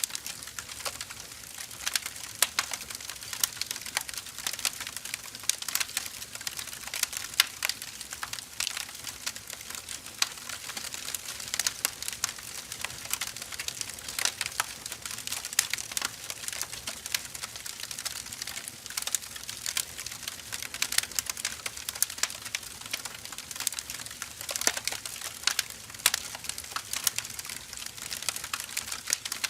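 Firewood burning, crackling steadily with dense, irregular pops and snaps over a soft hiss.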